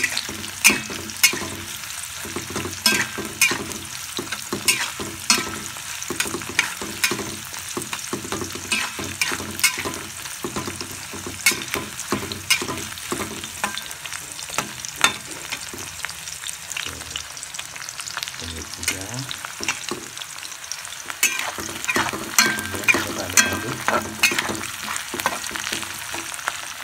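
Chopped shallots and garlic sizzling and crackling in hot oil in a metal wok, being fried until they wilt. A metal spatula scrapes and clicks against the pan as they are stirred.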